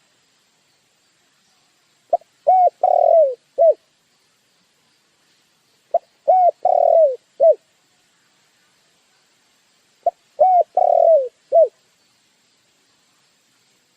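Dove cooing: three phrases about four seconds apart, each a quick soft note followed by three low, downward-curving coos with the middle one the longest.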